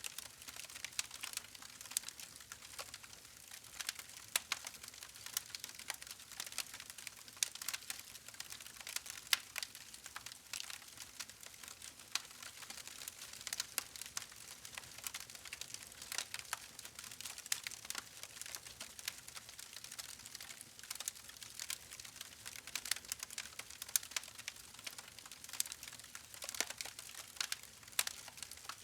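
Wood fire crackling, with dense irregular pops and snaps over a soft hiss.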